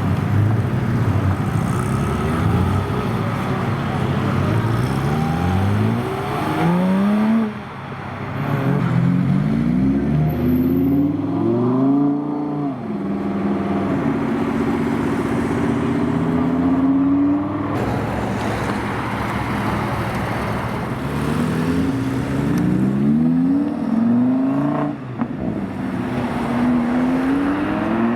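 Supercar engines revving and accelerating away one after another, each pitch climbing, dropping briefly at a gear change, then climbing again. Several runs follow in turn.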